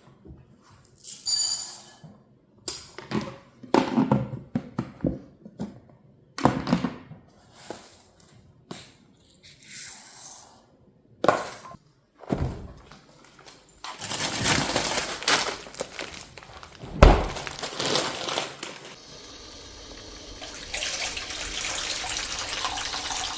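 A series of separate knocks and clatters as household items are handled, then running water from a tap starts past the middle, with a loud thump, and runs on steadily.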